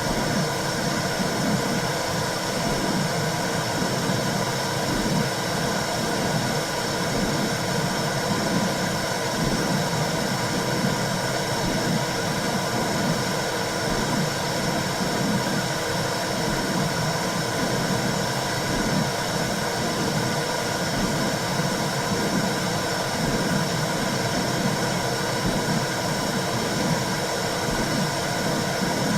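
Womb sound for soothing a newborn: a steady rushing white noise with an uneven low throb.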